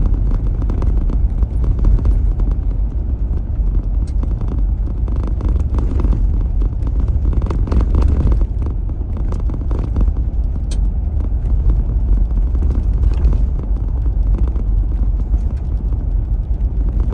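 Car driving along a country road, a steady low road-and-engine rumble heard from inside the cabin.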